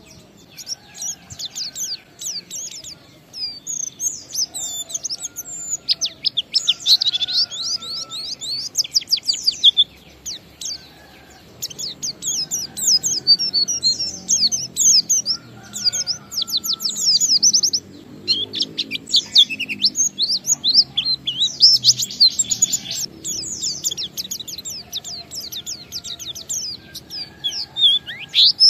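A white-eye (pleci) singing a fast, high, twittering song in dense bursts, with a short lull about ten seconds in. Fainter, lower slurred whistles sound between the phrases.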